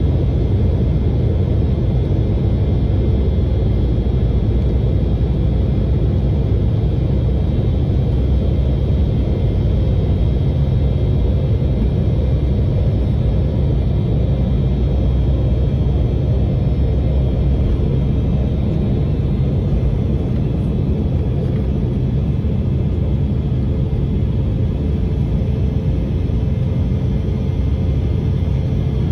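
Embraer E190's twin General Electric CF34-10E turbofans running at takeoff power: a loud, steady rumble with faint whining tones above it.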